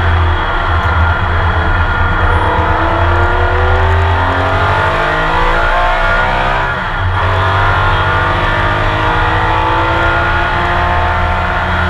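Porsche 911 RSR's flat-six race engine, heard onboard from the cockpit, accelerating hard: the pitch climbs steadily for about six and a half seconds, dips briefly at an upshift about seven seconds in, then climbs again.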